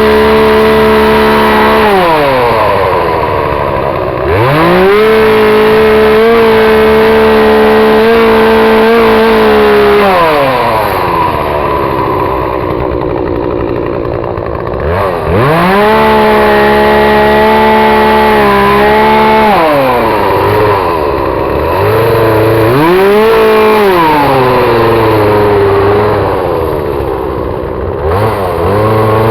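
Two-stroke chainsaw, held at full throttle for several seconds at a time, then dropping back to a low idle and revving up again, several times over, with a brief blip of throttle in between. This is the chainsaw carving a large trident maple trunk.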